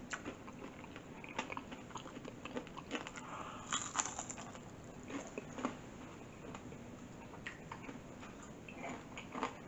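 Chewing and biting on crisp-battered fried porgy, with small crunchy crackles and clicks scattered through.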